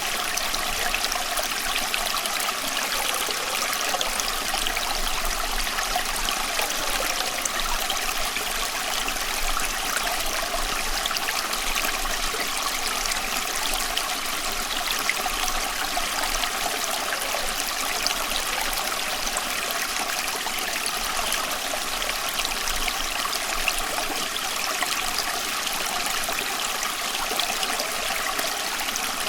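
Small stream flowing over stones: a steady, even rush of water with many little splashes and trickles.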